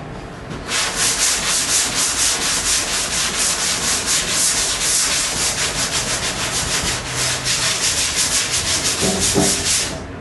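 Hand block sanding of primer and body filler on a car body panel with a long flat sanding board: sandpaper rasping in quick, even back-and-forth strokes that start about a second in. The work wears through the black guide coat to show the high and low spots.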